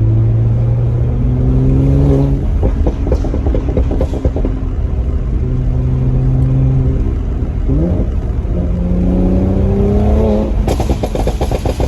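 2017 Mercedes-AMG C43's twin-turbo V6 pulling hard through its factory performance exhaust, rising in pitch twice. After each pull comes a rapid run of crackles and pops on lift-off, from the Eurocharged Stage 1 tune; the second run is the louder.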